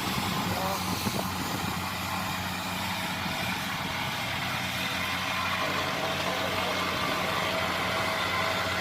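Kubota DC-70 combine harvester's diesel engine running at a steady speed, with a constant hum and a steady higher note from the machine.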